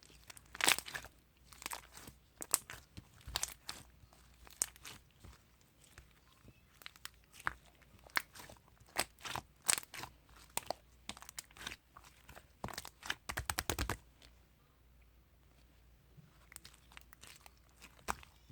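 Slime being played with by hand, making irregular sticky pops and crackles, with a pause of about two seconds after the middle.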